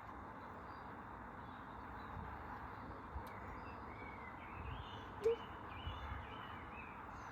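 Birds chirping faintly over a steady background hiss, with a short sharp knock about five seconds in.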